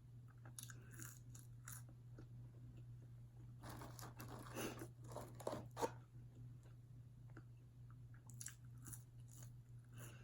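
Faint crunching and chewing of a person eating fried fast food, in scattered clusters, the loudest about four to six seconds in, over a steady low hum.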